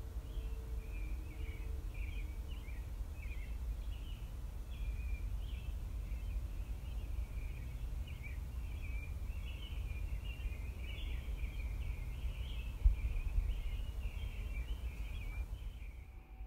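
Small birds chirping busily and without pause over a steady low rumble of background noise, with a single dull bump about thirteen seconds in.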